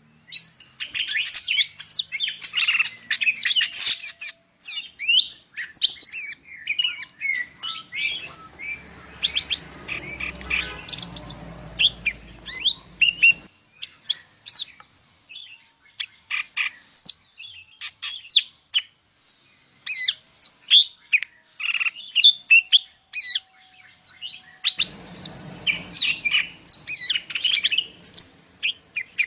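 Greater green leafbird (cucak ijo) singing a rapid, unbroken stream of varied chirps, whistles and trills, a song full of mimicked phrases. A low rumble underlies it in two stretches, around the middle and near the end.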